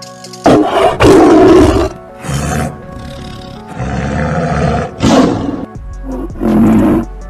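Tiger roaring in a series of about six loud calls, each up to about a second long, over background music.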